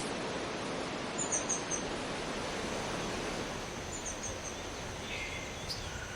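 Outdoor forest ambience: a steady rushing hiss with small birds chirping over it. There is a quick series of high notes about a second in, another just after four seconds, and lower chirps near the end.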